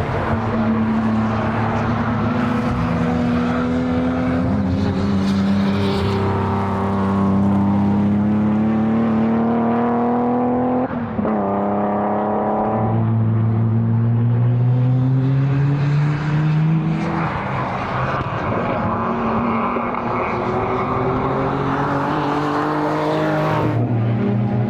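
Modified time attack race car engines under hard acceleration on a circuit. The pitch climbs steadily through each gear, with a sharp shift about eleven seconds in, another climb, and further changes near the end.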